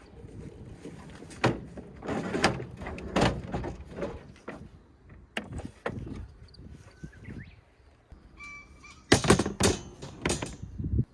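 A series of knocks and clunks, like doors or lids being shut and things being handled, loudest in a cluster near the end. A brief steady tone sounds just before that cluster.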